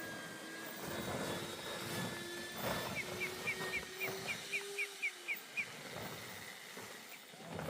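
A steady engine hum whose pitch creeps slightly upward before it fades, with a bird's quick run of about ten short high chirps in the middle.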